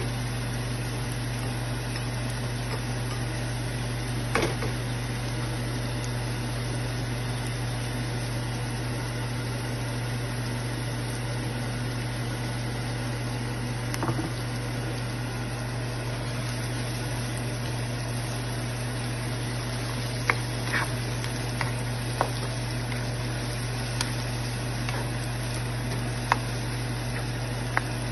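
Onions, tomatoes and flaked saltfish sizzling steadily in oil in a frying pan, over a constant low hum. A few sharp clicks of a utensil against the pan come once or twice early on and more often in the second half.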